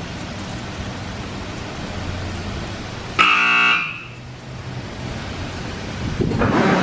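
Steady hiss of car wash spray on the car. About three seconds in, the wash's electric buzzer sounds once, loud and brief, for about half a second. Near the end a louder rushing wash sound builds up.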